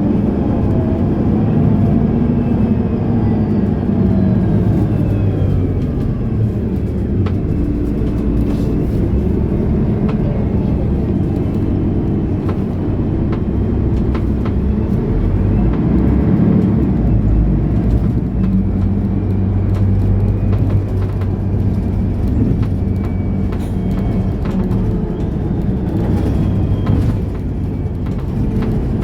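Engine and drivetrain of a 2010 Mercedes-Benz O530 Citaro Ü bus running under way, heard from inside the bus. The engine note rises and falls as the bus drives, with a faint whine gliding up and down above it and a brief dip near the end.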